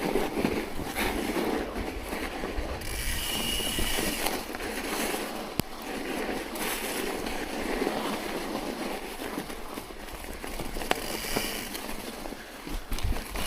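A ride through snow: steady noise of wheels working through the snow, with mechanical clicking and rattling. A short high squeal comes in twice, about three seconds in and again near the end.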